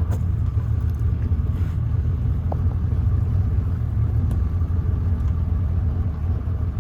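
Boat's outboard motor running steadily, a constant low rumble, with a few faint clicks.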